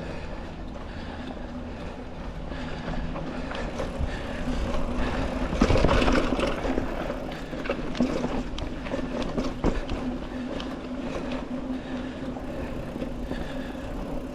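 Mountain bike rolling over a rough trail: tyres on dirt and roots, with the chain and frame rattling and clicking over the bumps. The rattling peaks about six seconds in.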